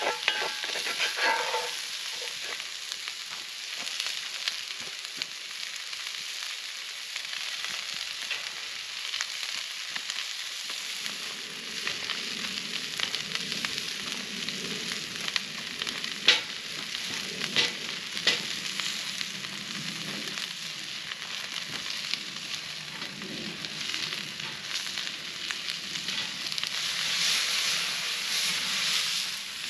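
Sliced vegetables frying and sizzling in a skillet over a campfire, with a wooden spatula scraping and stirring them at the start. A few sharp clicks come about halfway, and the sizzle swells near the end as the pan is tossed.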